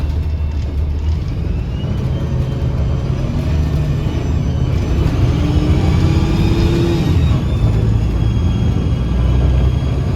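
2009 Gillig BRT 40-foot diesel transit bus with a Voith transmission accelerating, heard from inside: a deep drivetrain rumble under a sharp whistling whine that rises in pitch for several seconds, then drops suddenly about seven seconds in.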